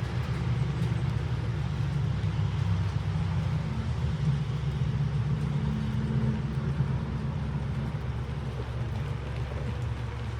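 A motor vehicle's low rumble swells and then eases off over several seconds, heard over a steady hiss of rain.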